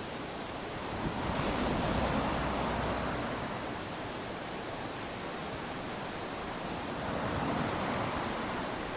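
Small waves lapping onto a sandy beach, the wash rising and falling twice, about six seconds apart.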